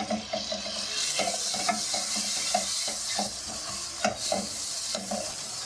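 Chopped tomatoes sizzling in hot oil and spice masala in a kadhai, the sizzle growing stronger about a second in, while a silicone spatula stirs and scrapes the pan in short strokes with a few light taps.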